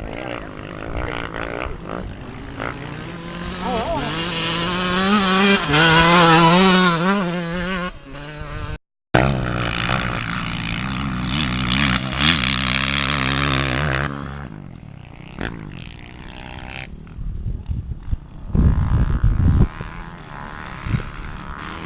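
Off-road race engines revving hard, their pitch climbing and wavering as they accelerate. The sound cuts out briefly a little under halfway through, then the engines run on more steadily before dying down toward the end.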